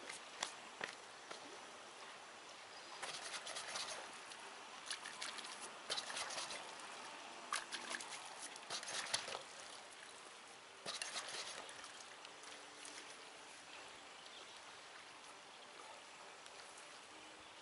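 Faint trickling, lapping water with scattered small clicks and rustles on top.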